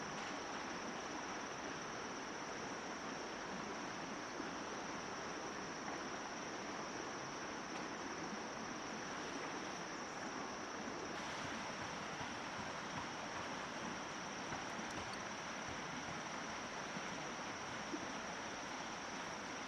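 Steady rushing water with a constant high-pitched insect drone above it.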